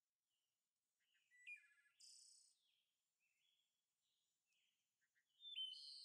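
Faint birdsong: several short chirps, trills and whistles, the loudest call near the end.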